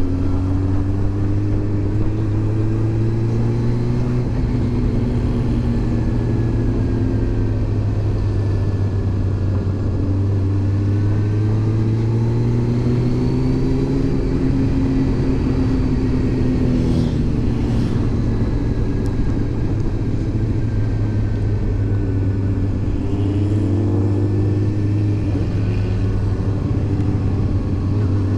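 Honda CB400 Super Bol d'Or's inline-four engine running under way, its note climbing and then dropping several times as the rider accelerates and changes gear, over steady wind and road rumble.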